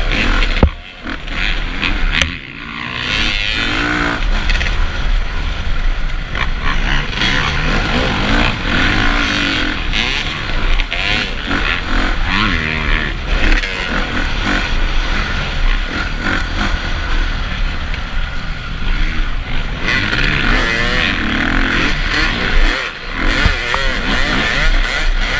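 Motocross motorcycle engines revving at race pace, their pitch rising and falling again and again.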